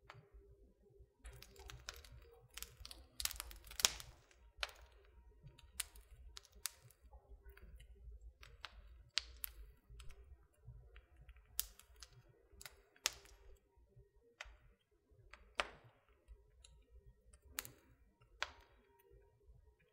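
Wood fire crackling in a fireplace: irregular sharp pops and snaps, the loudest about four seconds in, over a faint low rumble.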